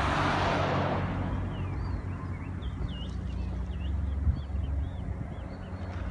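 Outdoor seaside ambience: a rush of wind or surf fades within the first second, leaving a steady low rumble. Over it come repeated short, up-and-down chirping bird calls from about a second and a half on.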